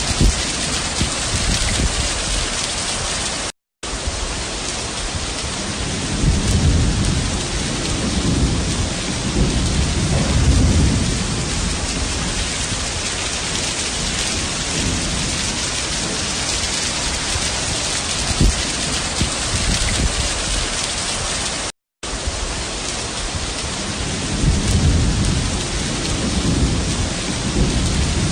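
Heavy rain pouring down steadily, with low rumbles swelling up twice. The sound drops out completely for a moment twice.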